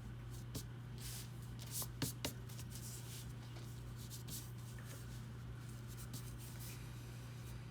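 Drawing strokes scratching across paper in short bursts, busiest in the first few seconds, with a few sharp taps about two seconds in, over a steady low electrical hum.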